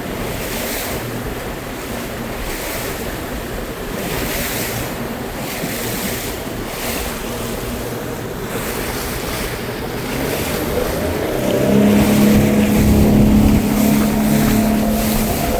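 Wind on the microphone and waves on open water, rising and falling every second or two. About eleven seconds in, a motorboat engine comes in running with a steady drone and becomes the loudest sound.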